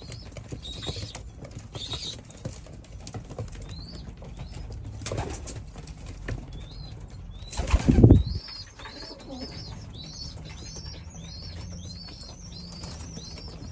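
Young racing pigeons in a loft: wings flapping, with a loud flurry of wingbeats about eight seconds in, then a run of high, rising-and-falling peeping calls repeating a couple of times a second.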